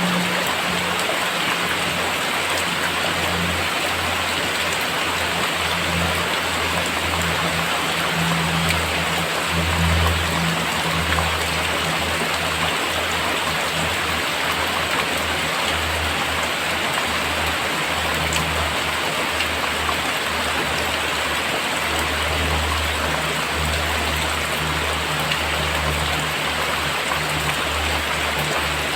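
Very heavy rain falling steadily, a dense even hiss of drops, with an uneven low rumble underneath.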